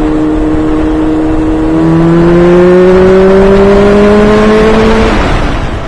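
Honda CBR600 F4i's inline-four engine accelerating, its pitch climbing slowly and steadily, then falling away about five seconds in, leaving wind rush.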